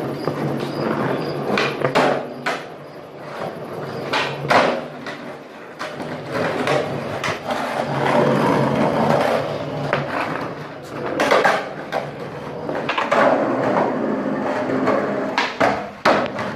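Skateboard wheels rolling on pavement, with the sharp clacks of the board popping and landing several times.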